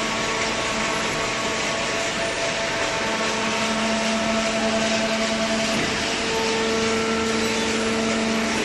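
Hydraulic cardboard baler's motor and pump running: a steady hum over a constant hiss, its tones changing slightly about three and six seconds in.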